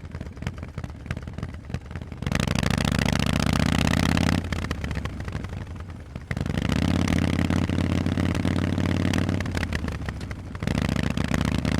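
Harley-Davidson Forty-Eight's air-cooled V-twin running through Vance & Hines exhaust. It burbles and crackles at low throttle, then pulls loudly in three stretches about two seconds in, six seconds in and near the end, with short quieter dips between them.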